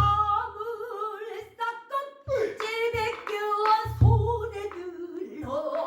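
A female pansori singer holds long, wavering melismatic notes that slide between pitches. A buk barrel drum strikes a low beat about four seconds in, with sharper stick clicks between the beats.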